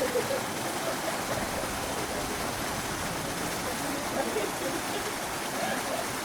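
Steady rushing noise with faint distant voices.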